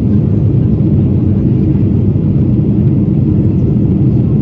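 Boeing 777-300ER jet noise: a steady low rumble that holds level without any change.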